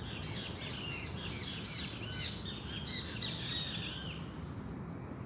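A wild bird calling: a quick run of short high chirps, about three a second, stopping about four seconds in, over a steady high-pitched insect drone.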